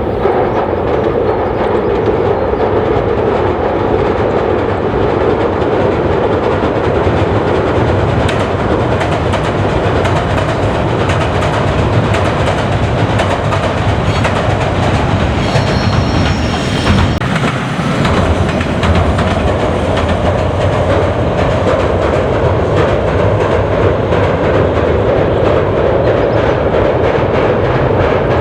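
Commuter train running along the track: steady running noise with the rapid clickety-clack of wheels over the rails. A brief high-pitched whine rises over it about halfway through.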